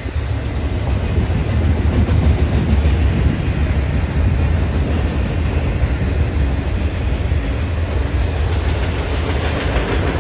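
Norfolk Southern freight train rolling past close by: a loud, steady rumble of wheels on rail with some clickety-clack, no horn.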